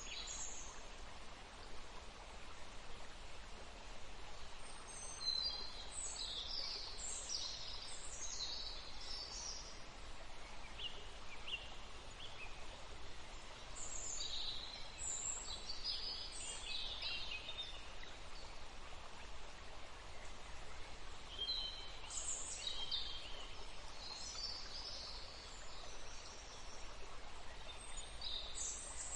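Steady rush of flowing water, with small birds chirping in short bursts several times over it.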